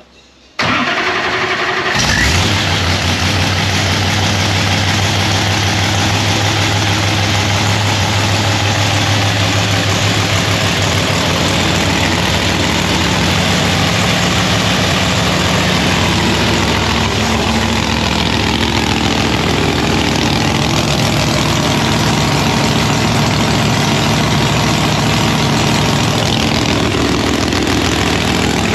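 ProCharger-supercharged Chevy Nova drag car's engine firing up about half a second in, catching around two seconds in and then idling steadily and loudly.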